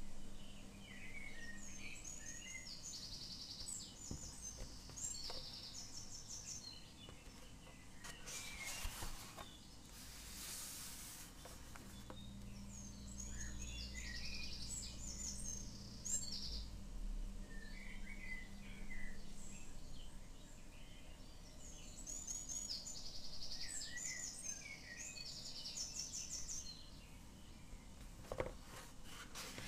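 Songbirds singing in short repeated chirping phrases over a quiet outdoor background hum. A rustle, like paper being handled, comes around nine to twelve seconds in.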